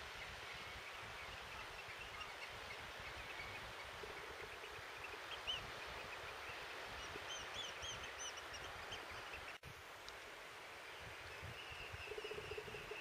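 Birds calling in quick, short, high notes over a steady wash of wind and sea, with wind rumbling on the microphone. The calls thin out after an abrupt break about ten seconds in.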